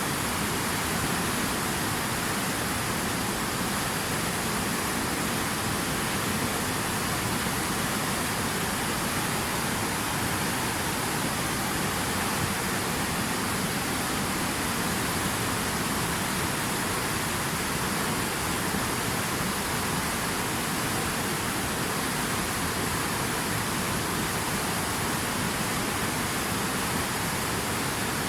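Steady rushing water: an even, unbroken hiss with no single splashes or drops standing out.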